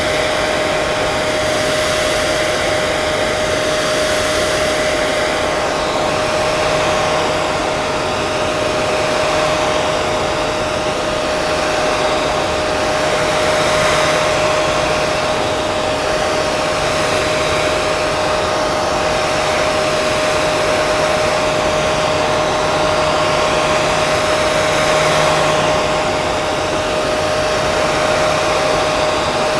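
Hair dryer running steadily: a continuous rush of air with a steady whine from the motor and fan.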